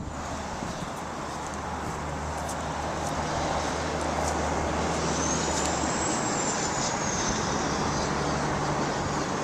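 Road traffic noise, a steady rush that slowly grows louder, with a low hum underneath that stops about six seconds in.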